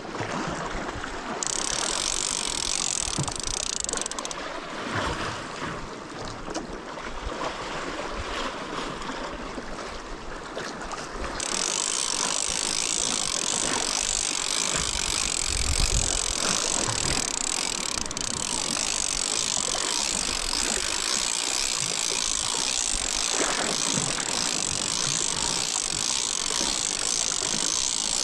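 Steady rushing of surf on a rocky shore with wind buffeting the microphone. A brighter hiss drops away after about four seconds and comes back strongly about eleven seconds in, and there is a low gust around the middle.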